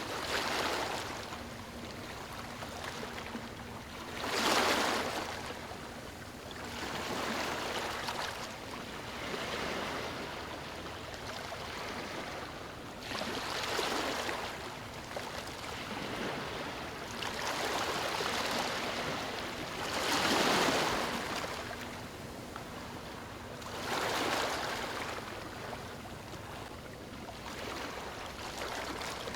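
Small waves washing onto a shore in a steady wash of water noise, surging up and falling back every three to four seconds.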